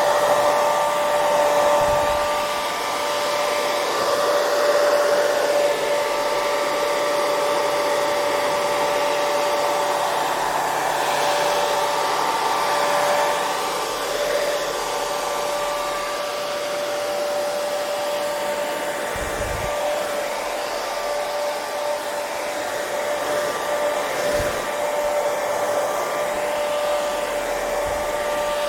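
Hair dryer running steadily: a continuous airy rush with a motor whine held at a few fixed pitches.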